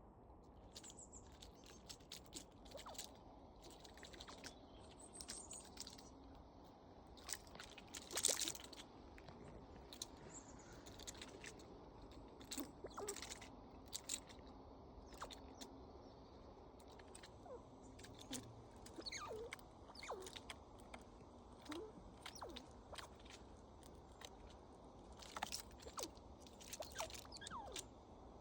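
Red squirrels at close range: faint scattered clicks, scratches and crunches, irregular and many, over a low hiss.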